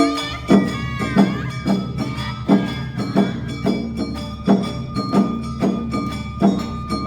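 Awa Odori festival band (narimono) playing: drums and a hand gong strike a steady, even beat under held melody tones from flute and shamisen, with a short gliding flute figure about a second in.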